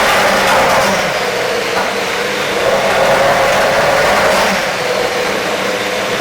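Super Formula car's Toyota 2.0-litre turbocharged four-cylinder engine being warmed up, revved up and down a few times with a deep, loud note.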